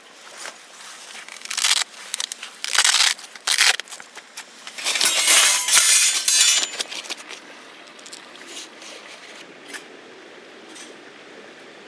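Bursts of rustling and crinkling, the loudest from about five to nearly seven seconds in, settling to a faint steady hiss for the last few seconds.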